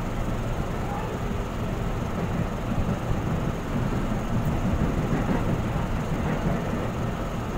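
Steady low rumble of a KRL commuter electric train (ex-JR 205 series) running along the track, heard from inside the carriage.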